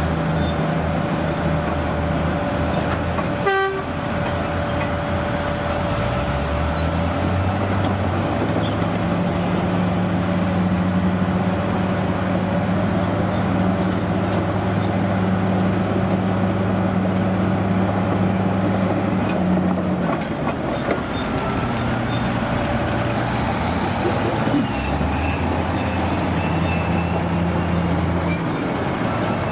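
Heavy vintage truck or construction-machine engine running, with the engine speed picking up about six seconds in, holding, dropping back and rising again near the end. There is a brief sharp sound a few seconds in.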